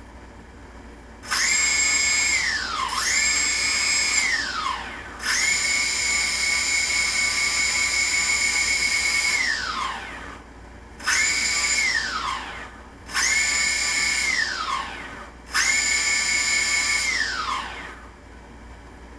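Hobby King Nova quadcopter's electric motors whining, spun up six times in a row: each run jumps to a steady high pitch, holds, then winds down in a falling whine. The third run is the longest, about five seconds.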